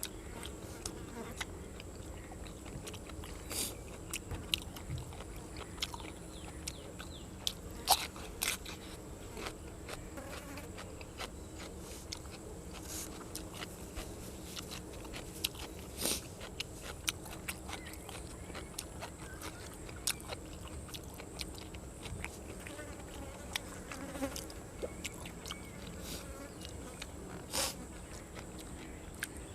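Close-up chewing and biting of grilled cuttlefish and fresh raw vegetables, with sharp crunches scattered throughout, over a steady high-pitched insect drone.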